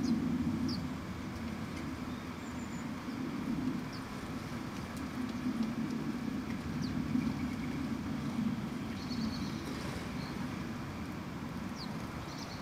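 Steady low rumble of road traffic, with brief high-pitched chirps from small garden birds every second or two.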